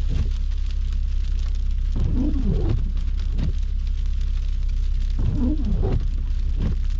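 Steady low rumble of a car driving, with windshield wipers clearing snow: a rubbery squeaking groan as the blades sweep, twice, about three seconds apart.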